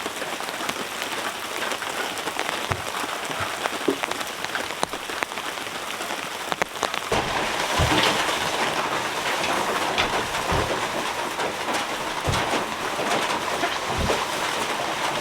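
Heavy rain falling steadily, growing heavier about seven seconds in. Many sharp drip clicks and a few short low thuds are scattered through it.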